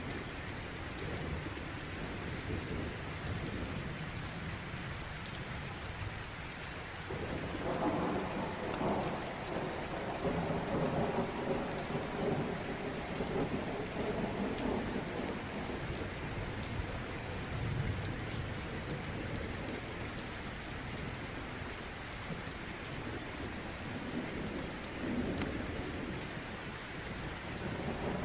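Steady rain with a long roll of thunder that swells in about seven seconds in and rumbles on for several seconds. Fine sharp crackles, like a wood fire, sound throughout.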